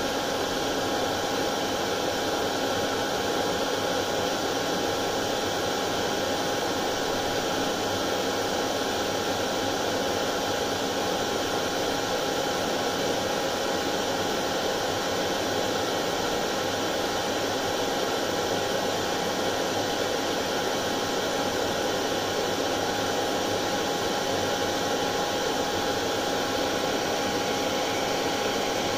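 Hair dryer running continuously: a steady rush of air with a constant motor whine at one pitch.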